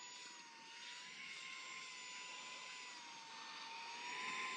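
SAKER 3-in-1 mini handheld vacuum's brushless motor running: a steady high whine that wavers slightly in pitch, over a rush of air as it sucks along floor corners.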